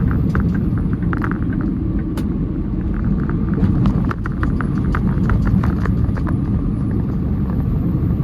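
Semi-truck diesel engine and road noise heard inside the cab while driving at highway speed: a steady low rumble with light rattling clicks scattered through it.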